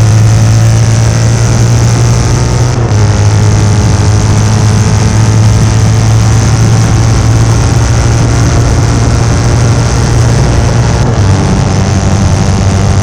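1972 Norton 750 short-stroke parallel-twin racing engine pulling hard under load, its pitch climbing steadily. The pitch drops briefly for gear changes about three seconds in and again near the end, then climbs again.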